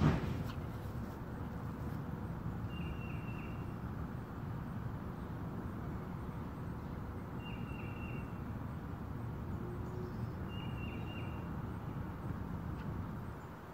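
Steady low outdoor background noise, with a short high bird call of a few quick notes heard three times. A single knock comes at the very start, and the background noise drops away near the end.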